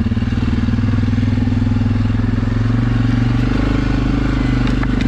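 Single-cylinder ATV engine running under throttle on a muddy trail, its note changing and smoothing out about three and a half seconds in.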